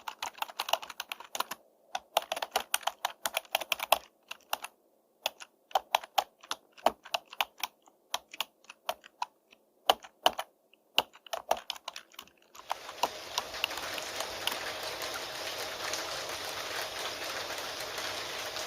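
Computer keyboard typing in quick runs of keystrokes with short pauses, cutting off abruptly about two-thirds of the way through to steady rain.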